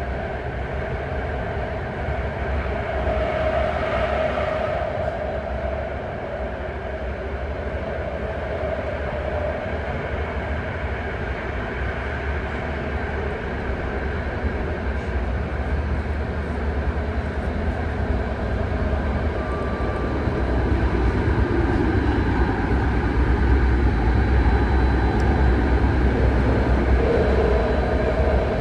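BART train running at speed, heard from inside the car: a steady rumble with wheel and track noise that grows a little louder in the last third.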